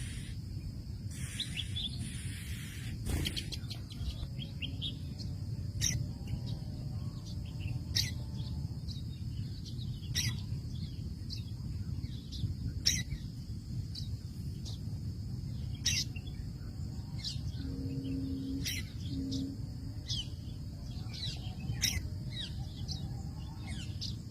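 A small bird giving short, sharp chirps, one every two seconds or so, with a few fainter chirps between them, over a steady high hiss and a low background rumble.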